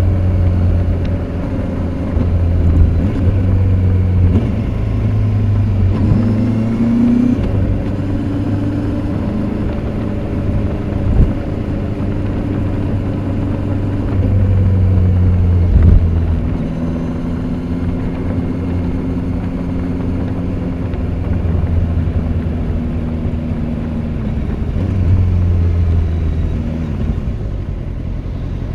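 Kawasaki Z800's inline-four engine through its stock exhaust while riding, its note rising and falling with the throttle. There are a couple of brief sharp knocks partway through.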